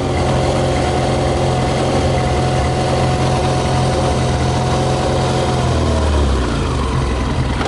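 Yamaha YZF 600R's inline-four engine running steadily on whisky (40% alcohol) in place of petrol, its pitch dropping about six seconds in.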